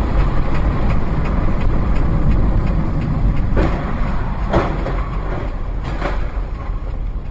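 Vehicle driving: steady road and engine rumble, with three brief, sharper sounds that bend in pitch around the middle.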